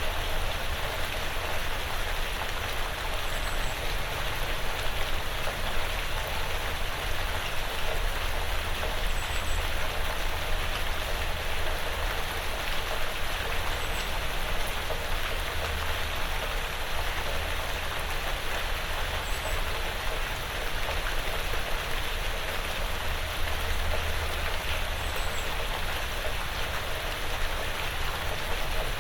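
Steady rain falling on a porch roof and the surrounding woods, an even, unbroken patter. A faint high chirp comes about every five or six seconds.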